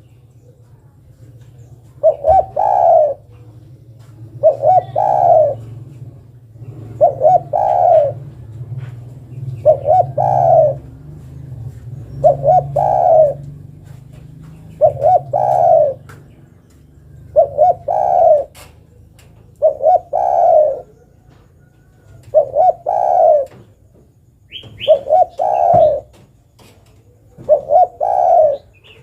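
Female spotted dove (derkuku) cooing, a call that draws a male: a short phrase of two or three coo notes repeated about every two and a half seconds, over a low steady hum.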